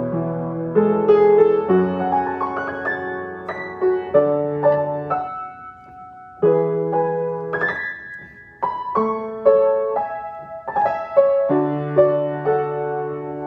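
Solo piano playing a slow, gentle piece of single notes and chords, each note fading after it is struck, with two brief quieter lulls near the middle.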